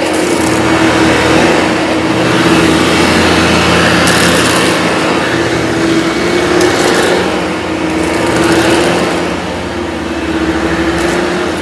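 Vorwerk VK 121 upright vacuum running with its ET340 powerhead, a steady motor hum under a loud rush of air and brush noise that swells and eases every few seconds.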